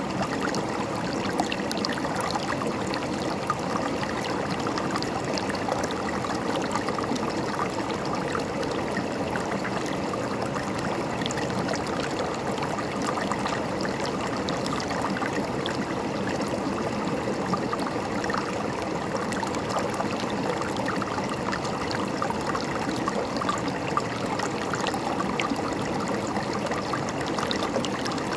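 River water flowing and gurgling steadily over rocks, an even rushing with fine splashing detail and no change in level.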